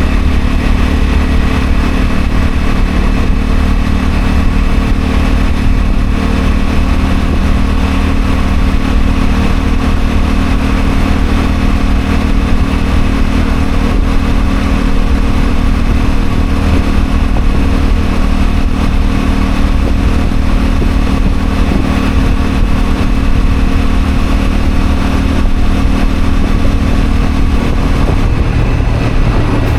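Honda CL250 motorcycle engine running steadily under way, with low wind rumble on the microphone. The engine note changes near the end.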